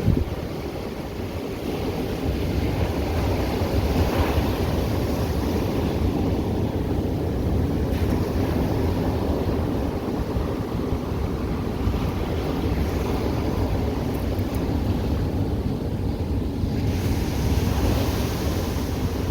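Ocean surf breaking on a beach: a steady low rushing rumble that swells as waves break, about four seconds in and again near the end.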